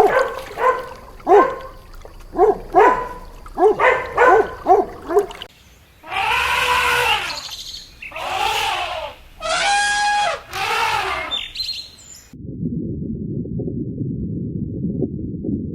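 A string of different animal calls. First comes a quick run of short, pitched calls, then four long calls about a second or more each, and from about twelve seconds in a dense, low, rasping chorus.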